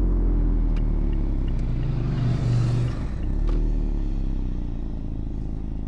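Mazda MX-5's 1.5-litre four-cylinder engine running with the pitch easing slightly down and the loudness slowly falling. A brief hiss comes about two and a half seconds in and a sharp click about a second later.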